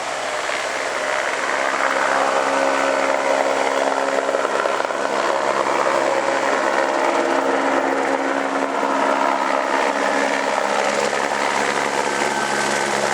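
Helicopter running close by: a steady engine and rotor sound with a whine, getting louder over the first two seconds and then holding steady.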